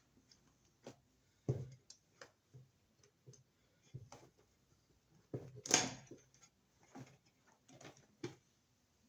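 Scattered light clicks and rustles of electrical wires and a wire nut being handled, with a louder, brief rustling scrape about six seconds in.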